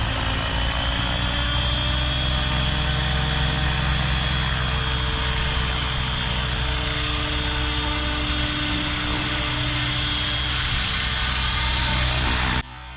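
Align T-Rex 700E electric radio-controlled helicopter in flight: a steady rotor drone with a high, steady whine from the motor and drive, rising slightly in pitch. It cuts off abruptly near the end.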